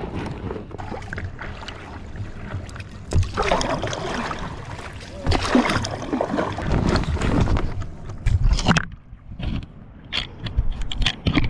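Water sloshing and splashing against a paddleboard, with irregular paddle strokes and knocks on the board.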